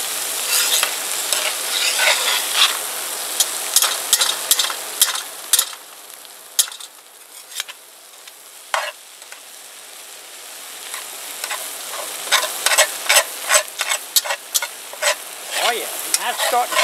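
Corn kernels frying and sizzling in a pot while a metal spoon stirs and scrapes along the bottom, with many sharp clinks of spoon on pot. The corn is starting to stick a little to the bottom. The stirring pauses for a few seconds in the middle, leaving a quieter sizzle, then resumes.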